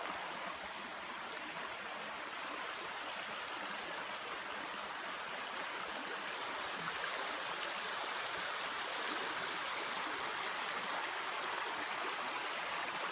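Low creek water running over stones: a steady rush of flowing water.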